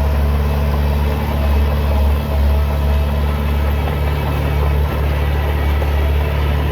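Heavy diesel engine of earthmoving machinery running steadily with a deep, even engine note.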